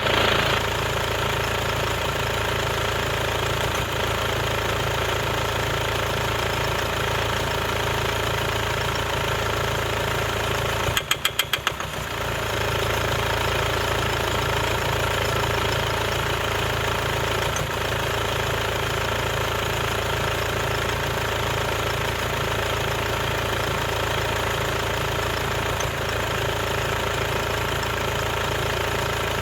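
Mercedes-Benz OM651 four-cylinder common-rail diesel idling with a steady rattle and an uneven run, the sign of a defective injector, as the owner diagnoses it. About eleven seconds in, a short run of louder knocks.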